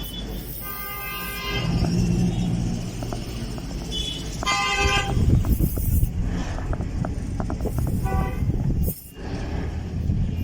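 Car horn sounding three short toots, a few seconds apart, over the low rumble of an engine running.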